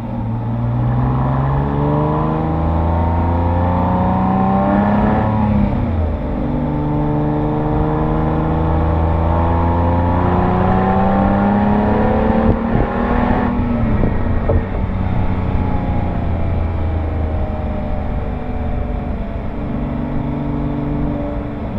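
Exhaust of a Porsche 911 Carrera S (997) 3.8-litre flat-six, heard from near the rear mufflers. The engine pulls up through two gears with rising revs, with an upshift about six seconds in and another about fourteen seconds in, then cruises at steady, lower revs.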